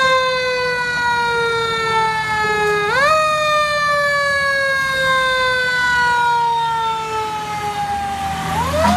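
Fire engine siren wailing. The pitch rises quickly and then falls slowly, is wound back up about three seconds in, and rises again near the end, over the steady low rumble of the truck's engine.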